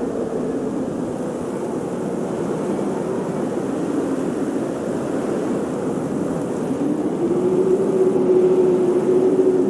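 Blizzard wind gusting steadily, with a whistling tone that swells in over the last few seconds.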